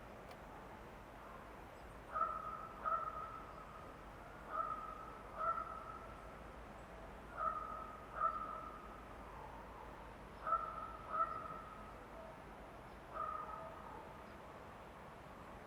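A bird calling: clear, slightly falling notes given in pairs, with a pair about every two to three seconds, over a faint background hiss.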